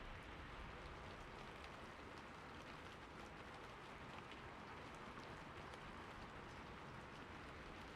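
Faint, steady rain: a soft hiss of falling rain with light scattered drop patter.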